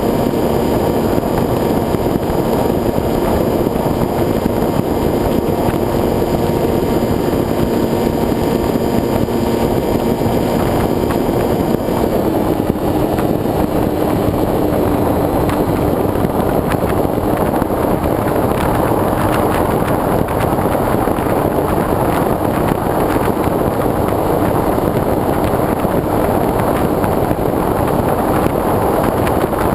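Motor and propeller of a foam RC plane in flight, heard from a GoPro on the wing, with wind rushing over the microphone. About twelve seconds in, the motor's tone shifts lower and the wind noise grows.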